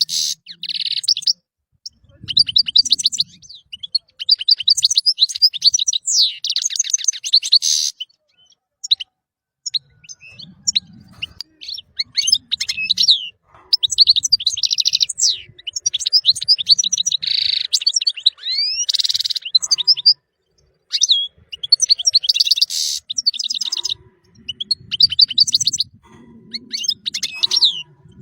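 European goldfinch singing: rapid, high-pitched twittering and trilling phrases with short whistled slurs, in bursts of a few seconds broken by brief pauses.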